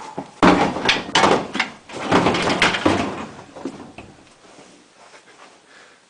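A quick, irregular flurry of knocks and thumps lasting about three seconds, then a few faint ticks.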